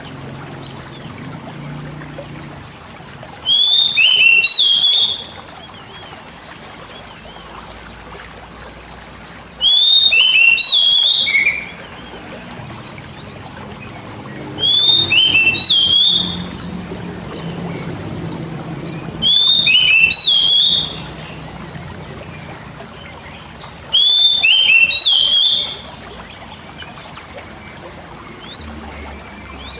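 Oriental magpie-robin (kacer) repeating a short whistled song phrase five times, roughly every five seconds, each phrase a quick run of rising and falling notes. A faint steady background noise lies between the phrases.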